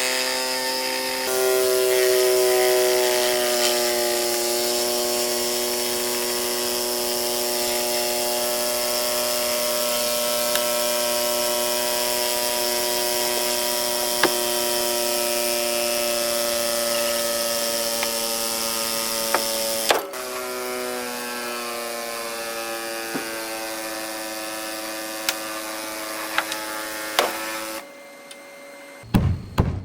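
A high-speed power tool's motor running steadily at a high pitch. About two-thirds through it shifts slightly in pitch with a sharp click, and it stops shortly before the end.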